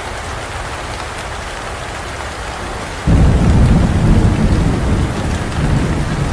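Steady rain hissing down, then about halfway through thunder breaks in suddenly with a loud, deep rumble that rolls on under the rain.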